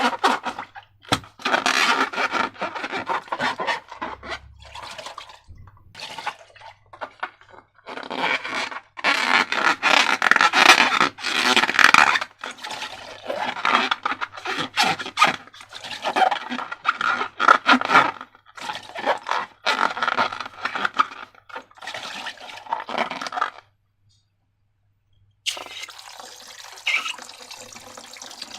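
Wet slime squelching and scraping in a container in irregular bursts as it is squeezed and mixed. Near the end a steady run of water starts.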